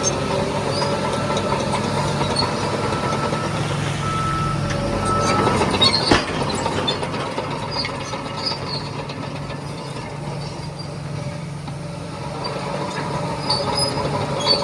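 Diesel engine of heavy earthmoving machinery running steadily, with scattered metallic clanks and one sharp knock about six seconds in. The engine eases off slightly past the middle and picks up again near the end.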